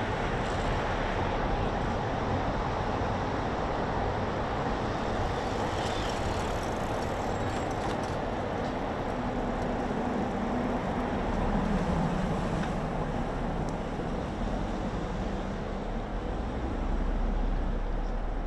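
Steady city road-traffic noise, a continuous hiss and rumble, with a low hum swelling briefly about ten to twelve seconds in.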